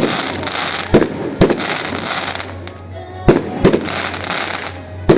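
Fireworks going off: about six sharp bangs come in pairs and singles a second or two apart, and each is followed by a spell of crackling.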